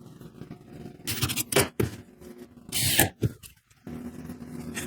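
A few short scrapes and knocks from handling drawer-slide hardware and thin spacers inside a cabinet, the loudest about three seconds in, followed by a faint steady hum.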